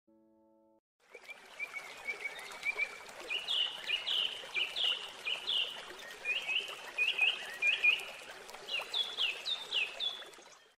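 A songbird singing, starting about a second in: a long run of short, sharp chirps repeated a few times a second, over a steady hiss.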